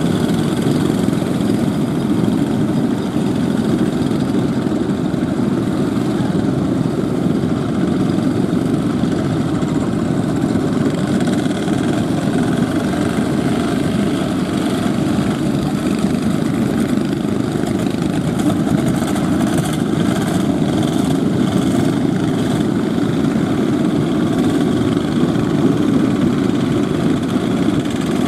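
Fishing boat engines running steadily as the boats head out through the surf.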